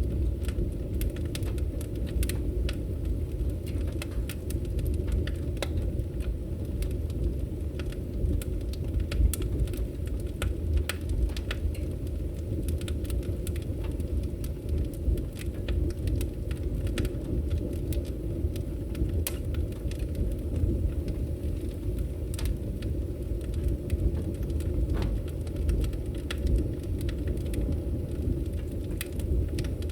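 Wood fire crackling: scattered sharp pops and snaps over a steady low rumble of the flames.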